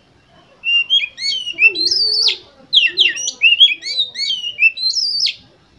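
Oriental magpie-robin (kacer) singing a rapid, varied phrase of quick whistled and slurred notes. The phrase starts about half a second in and breaks off shortly before the end. It is a bait song meant to set a competition kacer singing.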